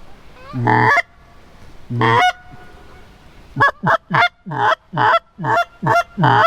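Goose honks, close and loud: two longer honks in the first few seconds, then a quick run of about eight short honks in the last three seconds.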